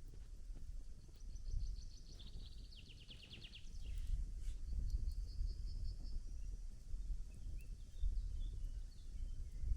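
A bird trills high and fast in two rapid runs over a steady low rumble, with a few faint crackles from a wood campfire.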